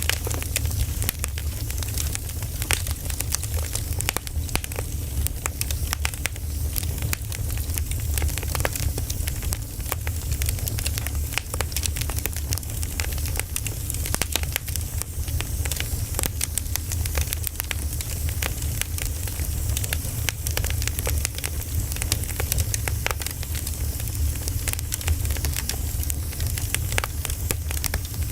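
Wood fire burning, with steady irregular crackles and pops over a low rumbling hiss.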